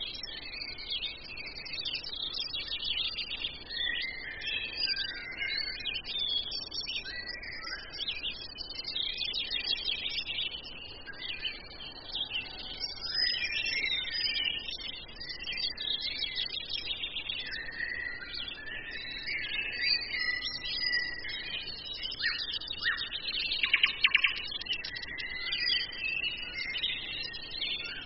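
Several songbirds chirping and singing at once, their calls overlapping continuously. A fast rattling trill stands out as the loudest sound a little over three-quarters of the way through.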